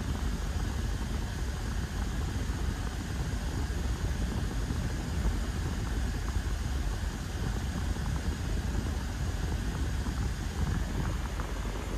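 BMW 1 Series engine idling steadily, heard from inside the cabin, with its airbox still disconnected.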